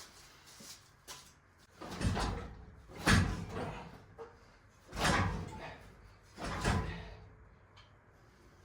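Four heavy clunks a second or two apart, each fading quickly, as an engine and transmission hanging from a hoist are shifted and knock against the truck while being worked out of the engine bay.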